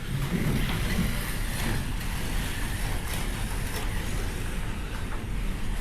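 Slot cars running laps around the track: a steady mix of small electric motor whine and tyre and guide noise.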